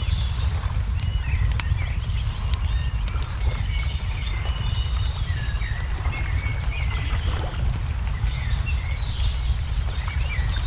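Songbirds chirping and twittering over a steady low rumble, with the sharp scattered pops of a crackling wood fire.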